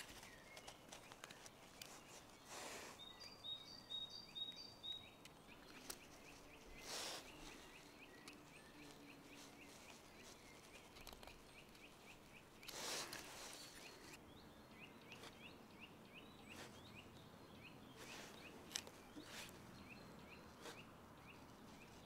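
Near silence: faint outdoor ambience with small birds chirping. There is a short run of high chirps early, then a long series of quick, faint chirps in the second half, with a few soft rustles in between.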